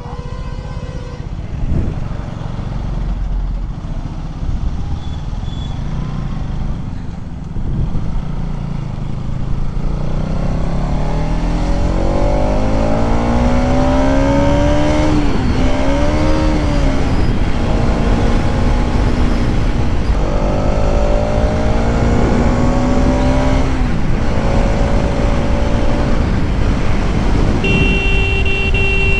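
Bajaj Pulsar NS200's single-cylinder engine pulling hard as the bike accelerates, its pitch climbing, then dropping and climbing again with each gear change, over wind and road noise. A horn beeps briefly at the start and again near the end.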